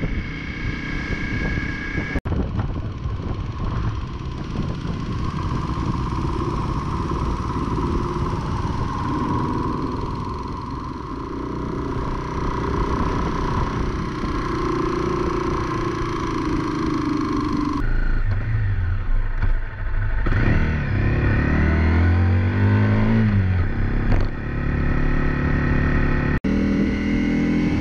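Single-cylinder 250 cc dual-sport motorcycle engines heard from on board while riding, with wind rush. In the later part the engine revs rise and fall repeatedly through gear changes.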